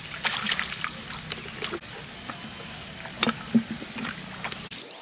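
Water splashing and trickling, with irregular sharp clicks and knocks.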